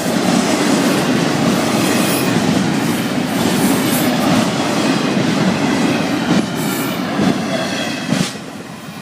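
Florida East Coast Railway freight cars rolling past a grade crossing at close range: a loud, steady rumble of steel wheels on rail, with a few sharp knocks. The level drops suddenly about eight seconds in.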